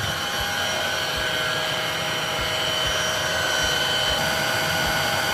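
Shark DuoClean cordless vacuum's motor running steadily in powered lift-away mode, a whining hum of several steady tones over the rush of suction.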